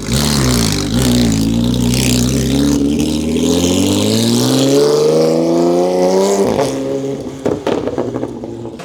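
A car engine accelerating, its pitch dipping briefly and then climbing steadily for about five seconds before dropping away, followed by a few sharp pops.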